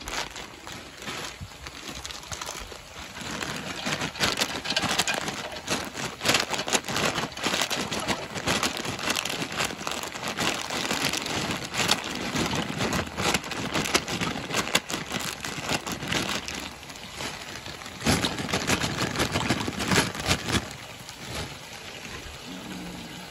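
Dense crackling hiss of food cooking on a gas stove: chicken frying in a pan next to a pot of water on the boil, with dry penne pasta being tipped into the water partway through. The crackle grows louder a few seconds in and eases near the end.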